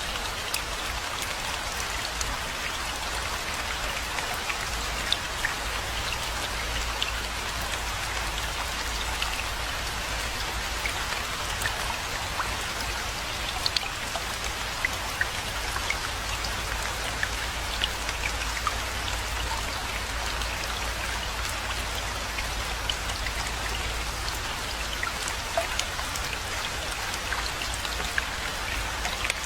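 Steady rainfall: a continuous hiss of rain with many individual drops ticking sharply on top, over a low, steady rumble.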